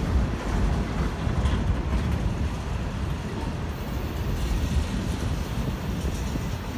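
Freight cars of a manifest train rolling over the rails, a steady low rumble of steel wheels on track.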